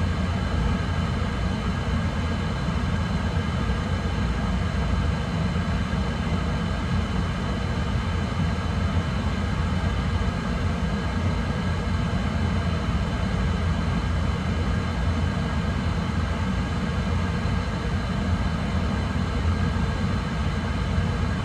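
Oil-fired boiler burner firing steadily, flame and burner blower making a constant low rumble with faint steady high whines above it, while its combustion is being tested.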